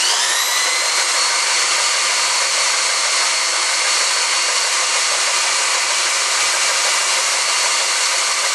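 Small electric motor whirring at high speed with a steady high whine. It rises to full speed in the first half second, then holds steady.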